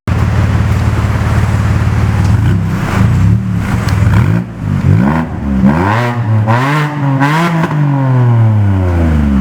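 BMW Z4 E89 sDrive23i's 2.5-litre straight-six heard through a full aftermarket stainless-steel exhaust: idling steadily, then revved in several quick blips, with the revs falling away slowly near the end.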